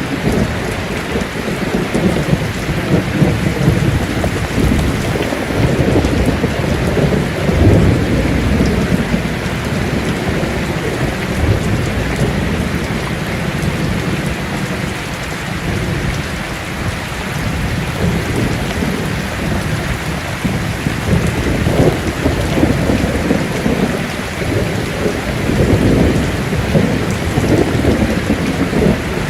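Heavy rain pouring steadily on a tin roof, with rolling thunder rumbling low beneath it. The thunder swells a few seconds in and again near the end.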